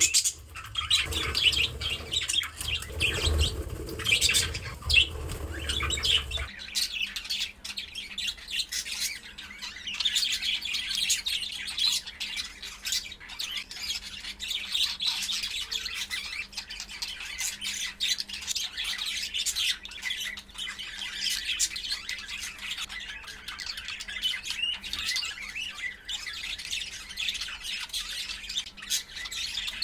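Pet budgerigar chattering and warbling nonstop: a rapid, high mix of chirps, squawks and scratchy notes. A low rumble underlies the first six seconds or so.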